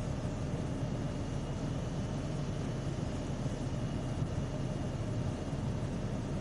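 Steady low rumble and hiss of a vehicle running, without change or sudden sounds, as heard inside a police car.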